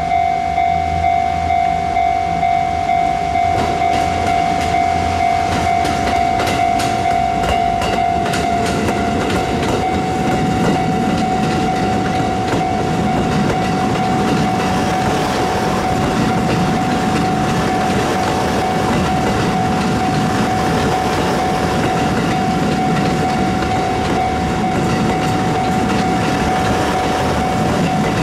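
Level-crossing alarm ringing steadily while a long Kiya E195 rail-transport train of empty flat cars rolls past close by. Its wheels rumble and click over the rail joints, the clicks thickest in the first third.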